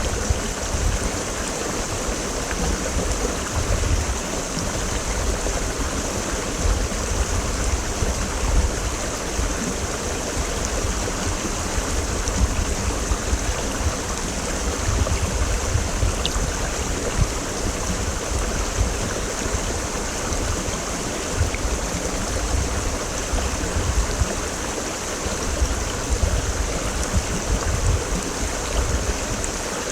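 Mountain stream rushing and gurgling over rocks, a steady, even flow of water.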